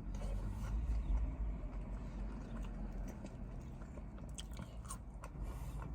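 A person chewing food close to the microphone, with wet mouth sounds and a few short clicks about two thirds of the way in.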